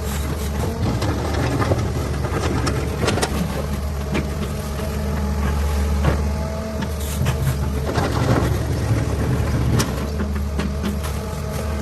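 Heavy diesel earthmoving machinery running at a steady pitch, with scattered knocks and rattles throughout.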